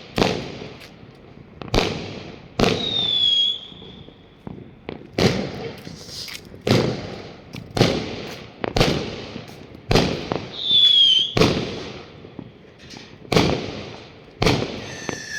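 Fireworks going off: a string of loud, echoing bangs about a second apart, irregular in spacing, with two short whistles that fall slightly in pitch.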